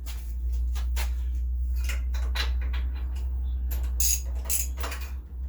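Small metal parts and tools clinking and rattling as a pressure washer's small engine is worked on, with a sharper clink about four seconds in and a steady low rumble underneath.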